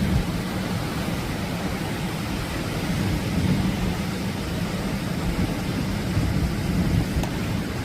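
Atlantic ocean surf: a continuous rushing roar of waves, heaviest in the low rumble, swelling and easing slowly.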